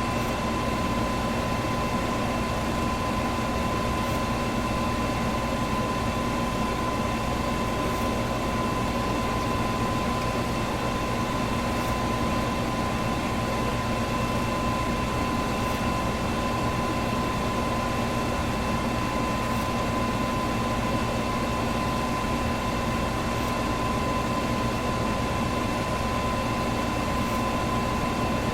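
Electric box fan running at a steady speed: an even rush of moving air with a steady hum and a thin, constant high whine over it.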